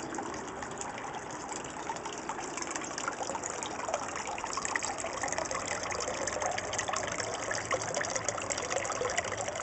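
Garden water fountain splashing steadily, water pouring and trickling.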